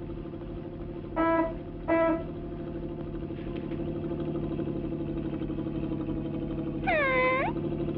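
Cartoon motor-vehicle sound effect: a steady, pulsing engine drone held at one pitch. Two short horn toots come about a second and two seconds in, and a swooping, dipping whine comes near the end.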